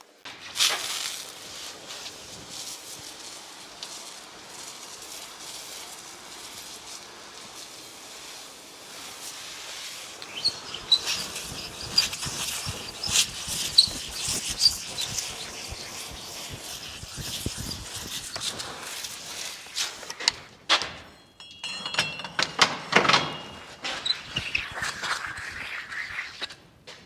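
A recycled-glass cleaning stone rubbed back and forth over wet, soapy polished granite: an irregular gritty scrubbing hiss, with a short pause and a few knocks in the later part.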